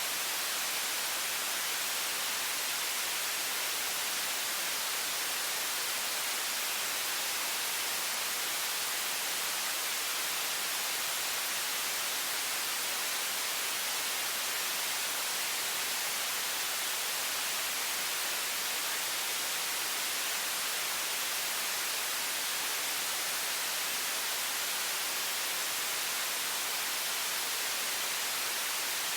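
High-pressure water faucet running in one steady stream: an even, unchanging hiss with most of its weight in the upper range.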